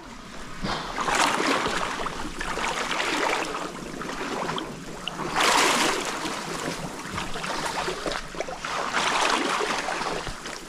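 Water splashing and swishing as a person wades through a shallow stream, rising in loud surges about four times.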